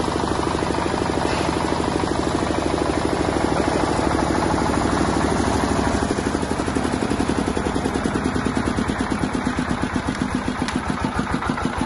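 Bajaj open-type ("noise version", no sound canopy) diesel generator engine running steadily with a regular beat of firing strokes; about halfway through the beat becomes more distinctly pulsed.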